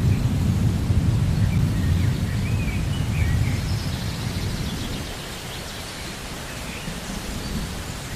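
Steady rain with a low rumble of thunder that fades out about halfway through, and a few faint high chirps over it in the first half.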